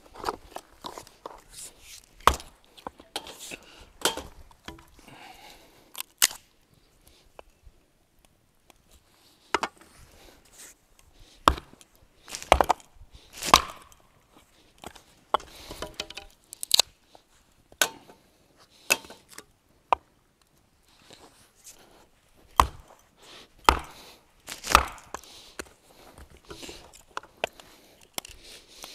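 Irregular knocks and clicks of food preparation on a hard surface, a few every couple of seconds with short pauses between.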